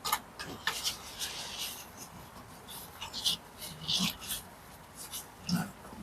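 Irregular short scrapes and light taps of a bricklayer's trowel working mortar and bricks.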